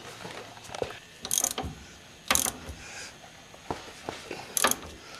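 Socket ratchet wrench clicking in short strokes while tightening a 19 mm nut on the car's front suspension. It comes in about three bursts of ratcheting, with fainter ticks between.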